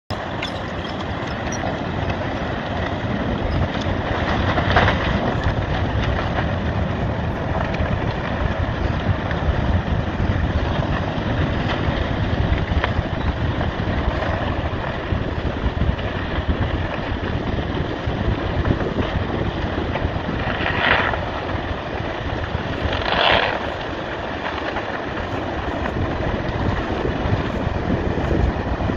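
Wind buffeting the microphone over the steady roar of sea surf, with a few brief louder rushes.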